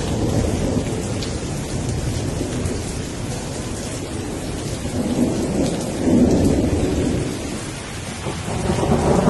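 Rain falling steadily, with low rumbling swells that grow about six seconds in and again near the end.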